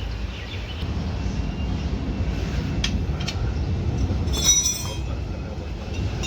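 Steady low workshop rumble, with two short metallic clicks about three seconds in and a brief high metallic squeal or ring about a second later, the kind made by steel tools and parts being handled.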